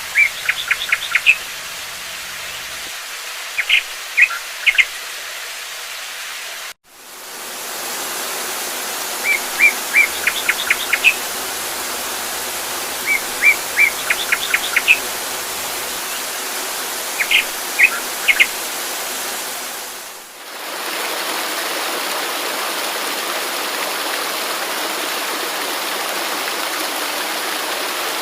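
A songbird repeating a short phrase of a few chirps and quick notes every few seconds over steady rushing water. About 20 seconds in the birdsong stops and only the rushing stream continues, with a brief break in the sound about 7 seconds in.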